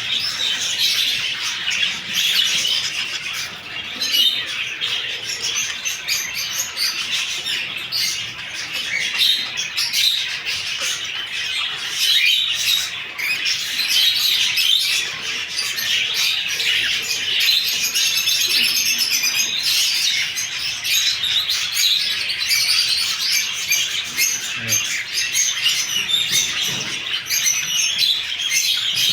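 Many small caged birds chirping and singing at once, a dense, continuous chorus of overlapping high tweets.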